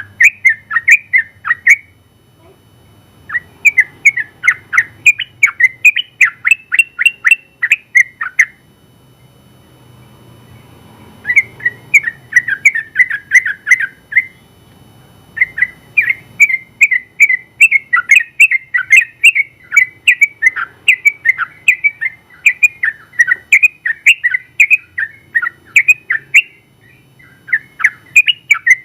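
Sooty-headed bulbul (trucukan) singing long runs of rapid, rolling notes, in about five phrases broken by pauses of a second or two; the longest run lasts around ten seconds.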